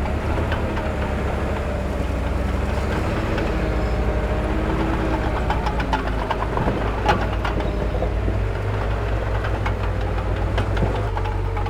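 Heavy diesel earthmoving machinery running, a deep steady engine rumble with scattered metallic clanks and knocks, the loudest about seven seconds in.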